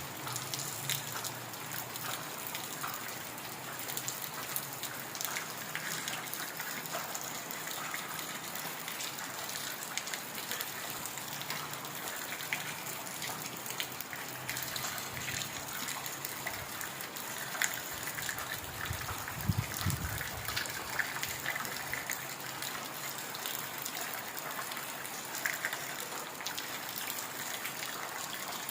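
Heavy rain falling steadily: a dense, even hiss with many individual drops ticking close by. A brief low rumble comes about two-thirds of the way through.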